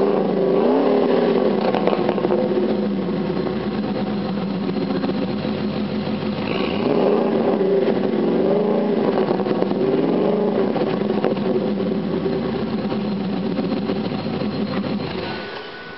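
Ford F-150's supercharged engine exhaling through a Borla XR-1 muffler: steady idle with a quick rev about a second in and a few more revs between about 6 and 11 seconds. The engine sound fades away near the end.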